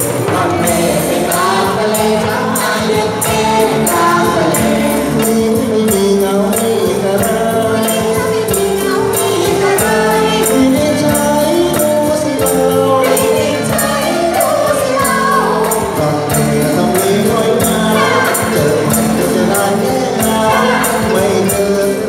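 Thai ramwong folk-dance song sung by a chorus of voices over a band, with a steady percussion beat.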